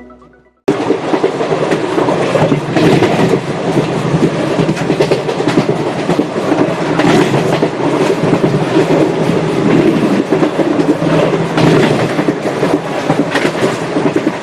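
Passenger train running along the track: a steady rumble with a busy clatter of wheels over rail joints, starting abruptly just under a second in.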